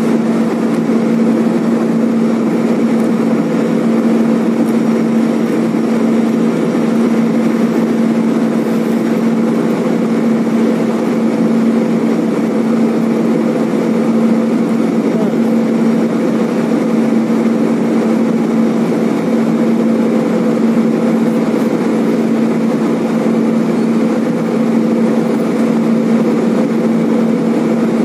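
Steady cabin noise of an airliner in flight: an even roar of engines and rushing air with a constant low hum running through it.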